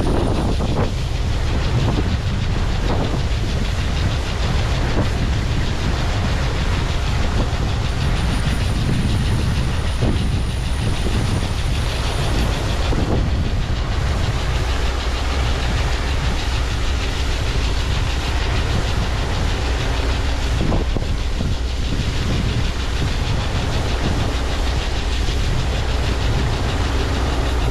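Heavy farm machinery running steadily at a corn harvest: a continuous low rumble with mechanical noise over it.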